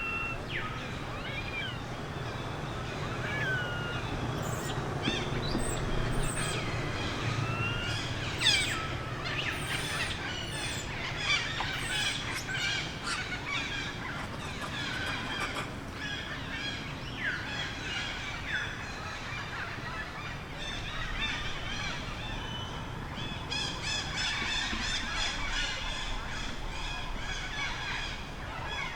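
Outdoor animal calls: many short, high-pitched calls and chirps with quick pitch slides, joined from about 23 seconds in by a dense, fast-repeating high chatter.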